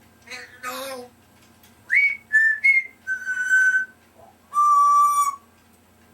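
African grey parrot whistling: two short calls, then three quick clipped notes, then two longer held whistles, each a little lower in pitch than the one before.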